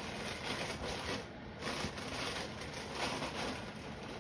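Soft rustling and scraping in irregular swells, with no calls or voice.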